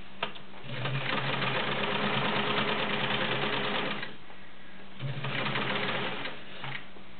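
Vintage Kenmore 1750 sewing machine stitching through a doubled denim jeans pocket, right over seams four layers thick. It runs for about three seconds, stops for about a second, then runs again for nearly two seconds. A single click comes just before the first run.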